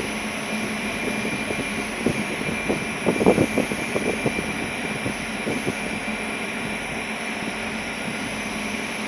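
Ferry's engines running: a steady drone with a low hum and a thin high whine over a rushing noise, with a cluster of short knocks about three seconds in.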